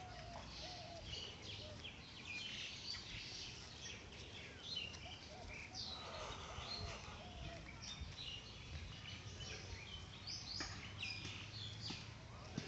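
Several birds chirping and calling with many short, high notes overlapping one another, over a faint steady outdoor background.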